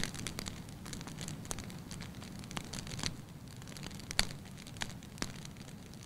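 Wood fire burning in a fireplace, with a steady low rumble and irregular sharp crackles and pops, the loudest about four seconds in.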